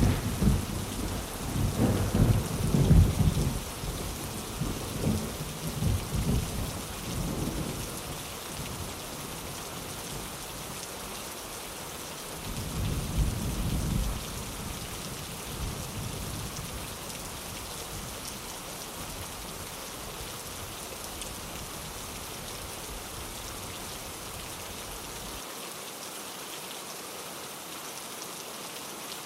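Steady rain with rolling thunder: a long rumble that fades over the first several seconds, and a second, shorter rumble about thirteen seconds in.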